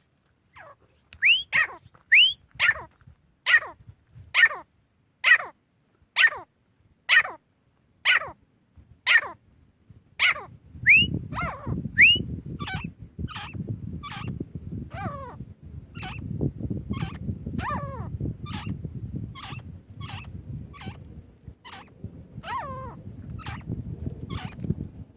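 Grey francolin calling: loud, sharply falling notes repeated about once a second, a few of them led by a short rising note. About ten seconds in, the notes come quicker and fainter over a low rumbling background noise.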